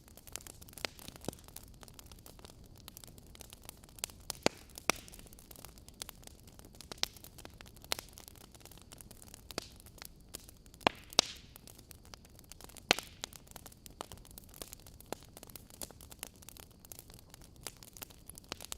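Wood fire crackling in a fireplace: irregular sharp pops and snaps over a soft steady hiss, with a handful of louder pops scattered through.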